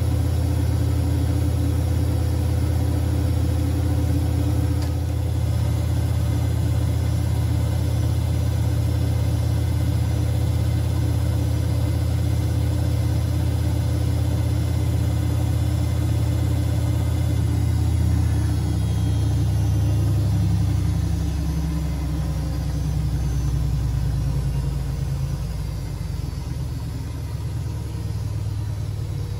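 Siemens Siwamat 6143 front-loading washing machine with its drum spinning: a loud, steady hum from the motor and drum that begins to wind down and grow quieter about twenty seconds in.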